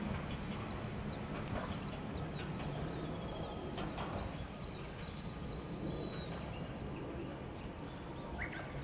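Wild birds chirping and calling in many short high notes, with a few longer falling whistles, over a faint low steady rumble.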